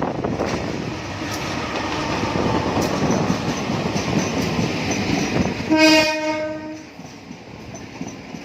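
A train passing over the rails, rumbling with faint wheel clicks. About six seconds in, a horn sounds one steady blast of about a second, and the rumbling then drops away.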